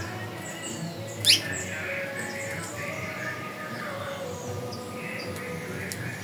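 Birds chirping and whistling in overlapping short calls. About a second in comes one loud, sharp whistle that falls steeply in pitch. Soft, steady background music plays underneath.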